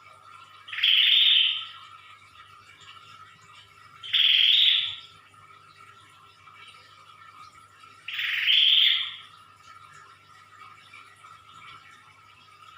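Prenjak (prinia) calling loudly in 'ngedor' fashion: three bright call bursts of about a second each, roughly four seconds apart. A faint steady hum runs underneath.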